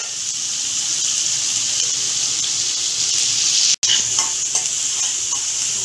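Sliced onions, peanuts and curry leaves sizzling steadily in hot oil in a metal kadai while being stirred with a spoon, with a few light taps of the spoon on the pan. The sound cuts out for an instant about two-thirds of the way through.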